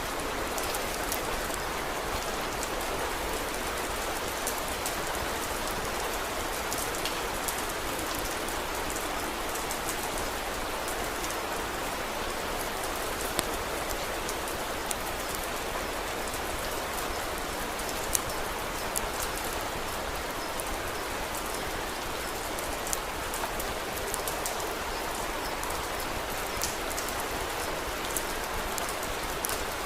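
Steady rain, with scattered sharp crackles and pops from a wood fire coming at irregular moments; a couple stand out louder, about a third and halfway through.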